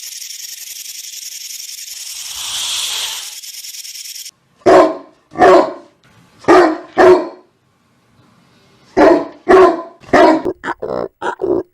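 A dog barking: four barks, a pause, four more, then a quicker run of short barks near the end. Before the barking, a steady high hiss cuts off suddenly about four seconds in.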